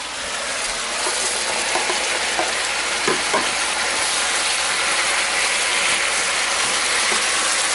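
Pork and green pepper sizzling hard in a hot skillet, a steady frying hiss with the cooking liquid nearly boiled off, stirred with a spatula that gives a few short scrapes and clicks.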